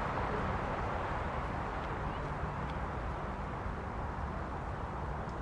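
Jet engine noise from a McDonnell Douglas MD-11F's General Electric CF6 turbofans, a steady rushing sound that slowly fades.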